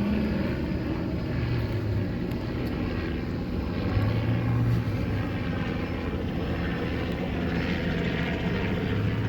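A steady, continuous engine drone with a low hum.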